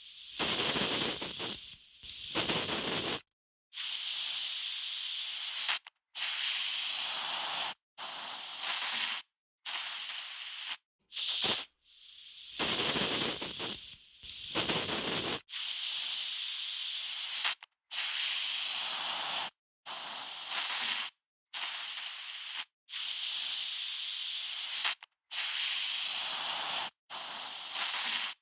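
Aerosol spray can hissing in a long series of separate sprays, each one to three seconds long, with short silent breaks between them. A couple of the sprays are fuller and rougher than the rest.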